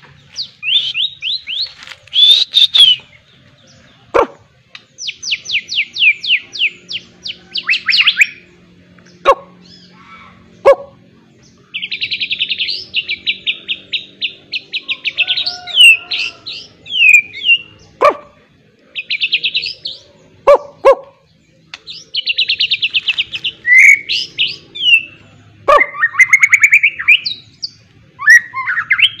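White-rumped shama singing loudly: fast trills of rapidly repeated notes, broken by sharp falling whistles and short harsh calls, over a faint steady hum.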